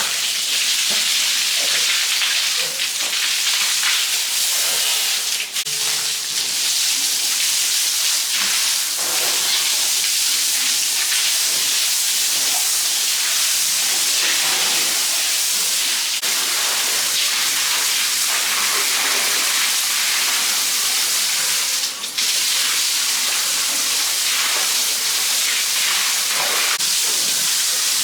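Steady hiss of running or spraying water, with a brief break about two-thirds of the way through.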